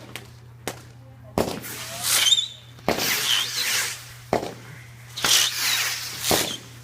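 Fireworks going off in quick succession: about five sharp bangs, each trailed by a second or so of crackling hiss, with a couple of short falling whistles mixed in.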